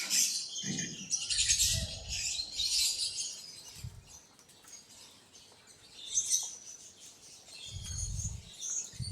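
Birds chirping in bursts of high, busy twittering, with a few dull low thumps among them.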